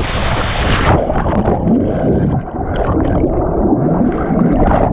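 Loud low rumble of wind buffeting the camera microphone, with faint muffled voices underneath. Background music cuts off in the first second.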